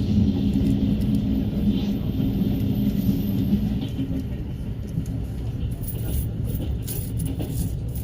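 Passenger train giving a steady low rumble, with a low hum that stops about four seconds in.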